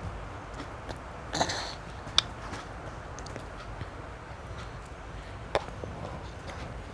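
Close-up mouth sounds of eating gummy cola candies: scattered small clicks and smacks, with a brief louder noise about a second and a half in and sharp clicks around two and five and a half seconds, over a steady low hum.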